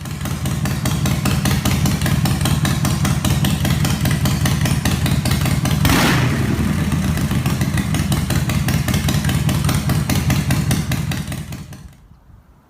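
Motorcycle engine running steadily with a fast, even putter, with a short rushing hiss about halfway through; the engine fades out near the end.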